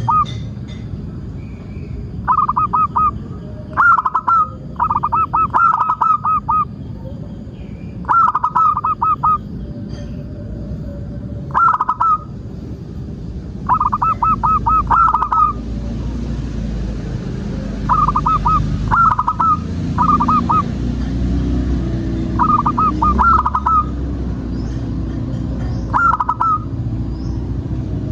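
Zebra doves cooing: about a dozen short runs of quick, repeated staccato coos, with a steady low rumble of background noise underneath.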